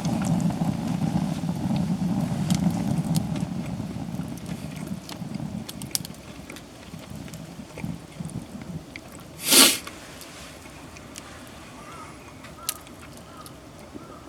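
A low rumble fading over the first few seconds, faint scattered crackles of a campfire, and about nine and a half seconds in a single sharp sniff close to the microphone.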